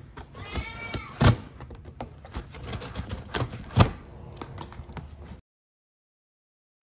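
Cardboard box being cut with a utility knife and torn apart: scraping, ripping and sharp cracks of the cardboard, loudest twice. A brief high-pitched animal cry comes about half a second to a second in. The sound cuts off suddenly near the end.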